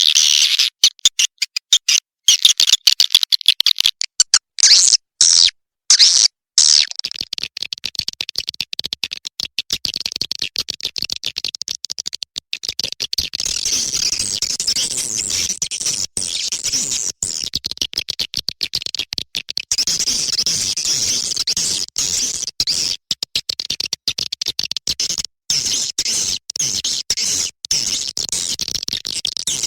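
Swiftlet call recording: a dense, high-pitched twittering chatter of rapid chirps and clicks, a calling sound used to lure swiftlets into nesting houses. It is choppy, with short gaps, for the first several seconds, then runs on as a continuous chatter.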